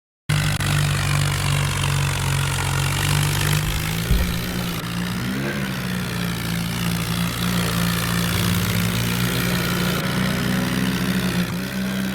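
New Holland tractor's diesel engine running steadily, its pitch shifting a few times as the revs change.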